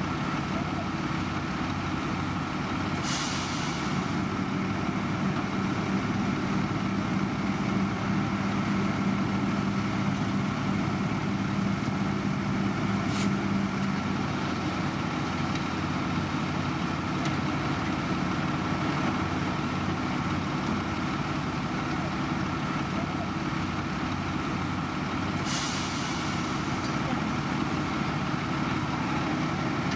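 Heavy diesel construction machinery running steadily. Short bursts of hissing air, like an air brake, come about 3 seconds in and again near the end, with a single sharp click around the middle.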